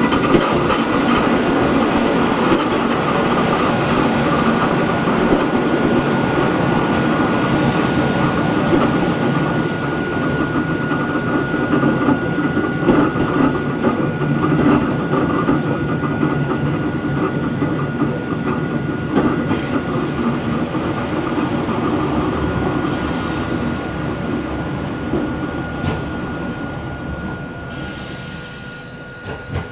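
Hakone Tozan Railway Moha 1 electric car running, heard from on board: the nose-suspended SE121-A traction motors and gearing hum under a steady whine, mixed with wheel-and-rail clatter. The sound grows quieter over the last few seconds.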